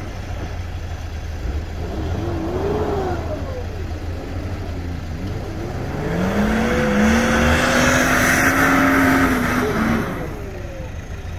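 A car engine accelerating. Its pitch rises steadily over a few seconds, with rushing noise building alongside, then the sound drops away about ten seconds in.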